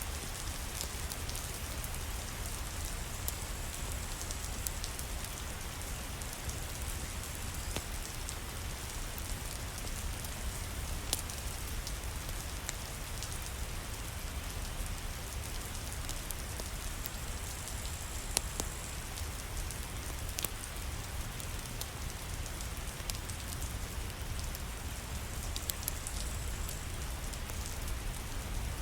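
Steady heavy rain with a low rumble underneath, dotted with scattered sharp pops and crackles like those of a fireplace wood fire.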